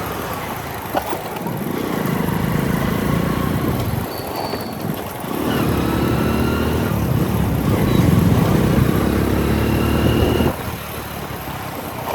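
Motorcycle engine running under throttle in city traffic. It swells twice in loudness and eases off sharply near the end.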